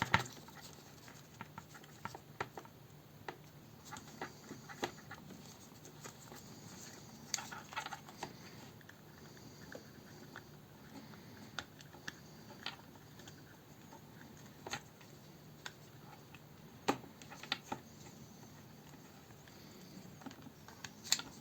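Scattered light clicks and scratches of the speedometer's plastic housing being worked apart by hand, at uneven intervals, over a faint steady low hum.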